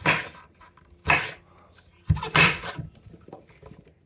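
Kitchen knife cutting an apple into small pieces on a cutting board: three separate cuts about a second apart.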